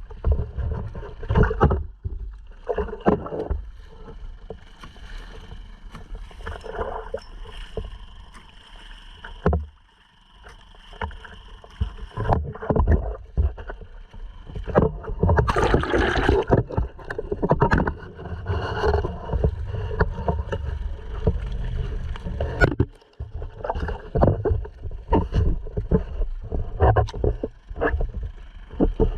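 Water slapping and splashing against a sea kayak's hull, with wind buffeting the microphone in uneven gusts. It dips briefly about ten seconds in and cuts out for a moment near the end.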